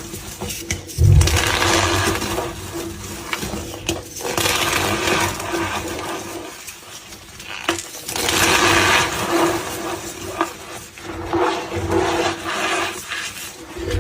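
Gym chalk blocks being squeezed and crushed by hand, making squeaky crunching and crumbling in irregular bursts. There is a low thump about a second in.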